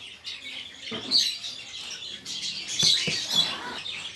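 Small birds chirping in short high notes, with a few sharp clicks.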